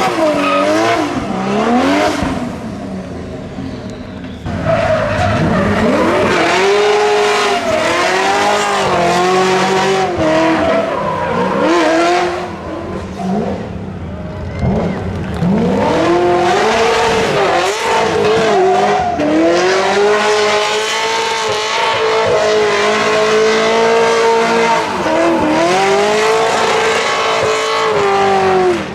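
Drift car engines revving up and down repeatedly while the tyres squeal in sustained slides. There is a quieter lull about three seconds in.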